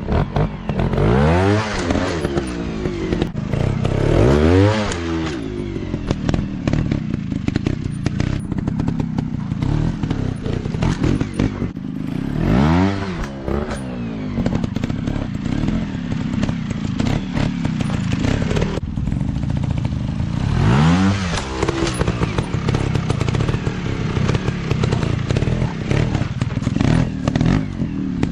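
Off-road motorcycle engine running, its pitch rising and falling in about five revving surges between stretches of steadier running.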